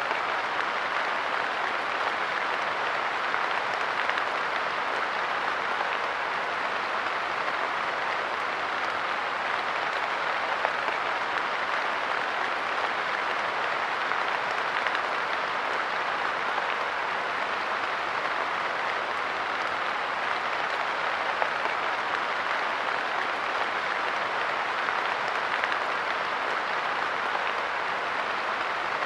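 Light rain falling on a park bench: a steady, even hiss of drops, with a few louder single drops standing out.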